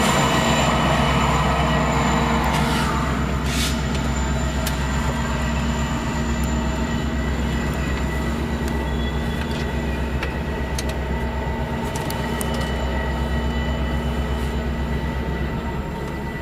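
Diesel-hauled train passing close by: a steady low engine drone with scattered sharp clicks from the wheels, easing off slightly near the end.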